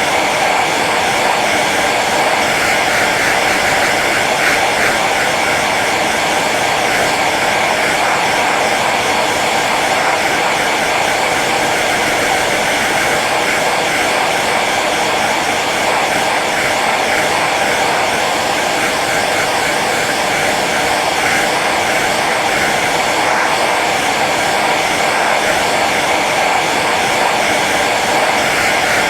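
Hair dryer blowing steadily on its low setting: an even rush of air and motor hum.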